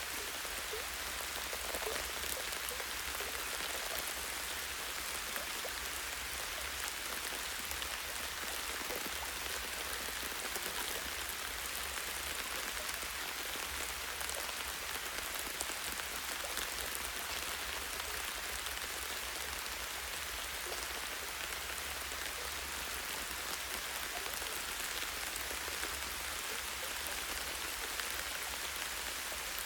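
Light, steady rain, a constant hiss of many small drops falling on a tree branch, with a steady low rumble underneath.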